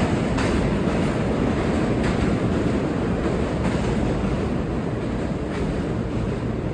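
New York City subway train running along the platform: a steady rumble of steel wheels on rail with occasional faint clicks, easing slightly toward the end.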